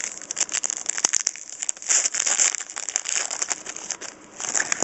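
Crinkling and tearing of a trading-card pack wrapper as a new pack of 2009 Donruss Gridiron Gear football cards is opened and its cards handled. It is an irregular, crackly rustle with many small clicks.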